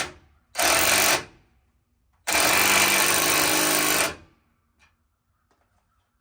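Impact wrench hammering steering linkage bolts tight in short bursts: a brief burst about a second in, then a longer run of about two seconds.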